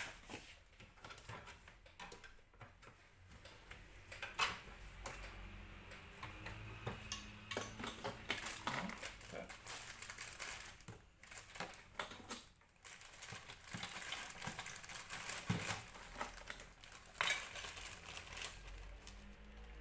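Small plastic Sylvanian Families toy pieces clicking and clattering as they are handled and packed away, in irregular light knocks.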